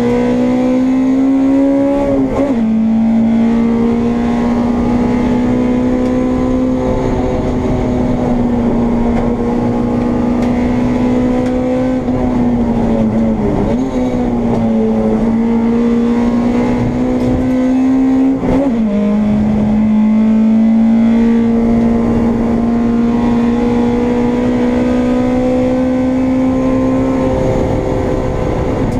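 Honda Integra race car's four-cylinder engine heard from inside the car at high revs under hard acceleration, its pitch climbing slowly through each gear. The pitch drops sharply at gear changes about two seconds in and again around 18 seconds, with a brief dip and recovery near 14 seconds.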